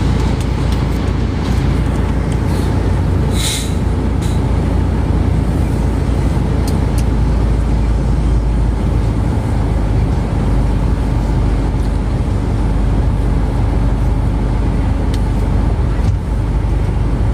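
Steady low rumble of a moving vehicle heard from inside, with a short hiss about three and a half seconds in.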